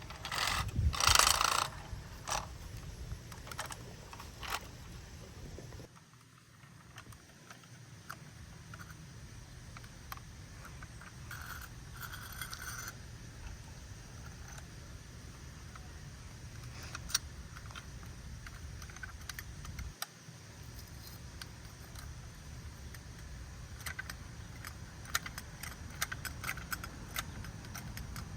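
Clattering and scraping of a toy garbage truck being handled and worked, with a loud burst of clatter about a second in and scattered small clicks later, most of them near the end.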